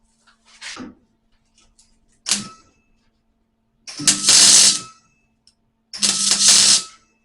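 Welder laying short stitch welds on thin sheet steel while patching a rusted spare wheel well: two brief sounds, then two loud bursts of about a second each, roughly two seconds apart.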